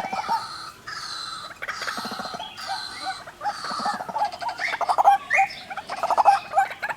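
White-breasted waterhens, a male and female pair, calling: rapid strings of repeated gobbling notes, the two birds' calls overlapping, busiest and loudest in the second half.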